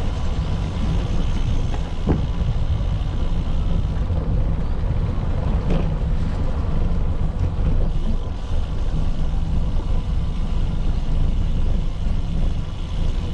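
Steady low rumble of wind on the microphone mixed with road and traffic noise during a ride, with one sharp click about two seconds in.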